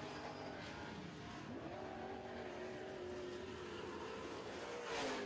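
Super truck race engines running around a dirt oval track. The engine pitch rises as a truck accelerates about a second and a half in, and a truck passes louder near the end.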